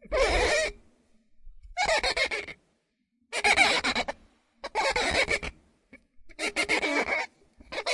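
Glass squeaking in a run of about six separate squeaks, each under a second long with short pauses between, high-pitched and loud.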